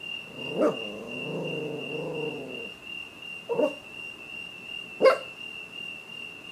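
A dog barks three times at a smoke alarm, with a drawn-out low growl after the first bark. Under the barks the alarm sounds a steady high tone throughout.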